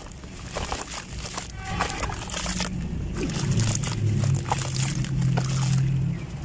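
Dry sand-cement clumps crumbling with many small irregular crackles and crunches, over a low steady hum that comes in about halfway through.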